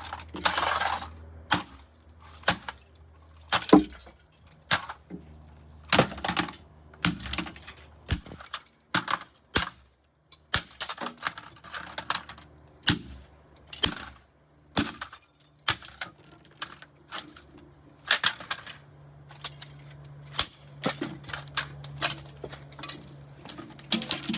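Hard plastic casing of a microwave-burnt GPX laser tag toy gun being smashed and broken apart: irregular sharp cracks and clattering knocks, about one or two a second, the loudest about four seconds in.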